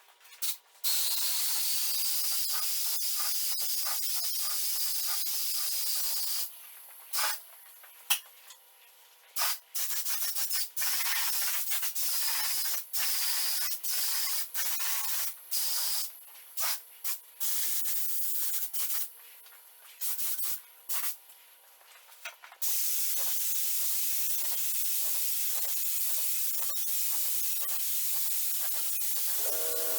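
Paint spray gun hissing as it lays on clear coat: a steady hiss for several seconds, then a long stretch of short on-off bursts as the trigger is pulled and released, then a steady hiss again for the last several seconds.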